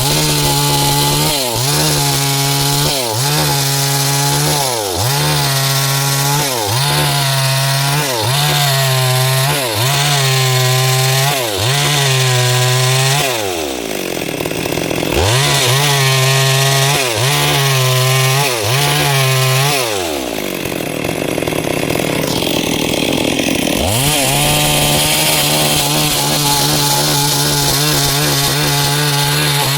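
Stihl MS 382 two-stroke chainsaw cutting wood at high revs, its pitch dipping briefly about once a second under load. The engine winds down toward idle and revs back up twice: about halfway through and again about two-thirds in. Near the end it runs steady at high speed.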